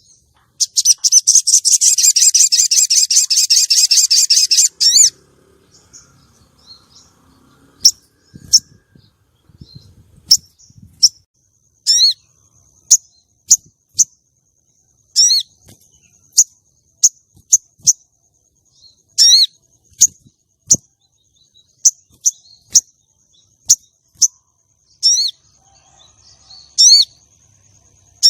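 Female sogon (crested jay) calling, the kind of call used to lure and excite a male. It gives a loud, rapid, high rattle lasting about four seconds, then a string of sharp single chirps spaced a half second to a second apart.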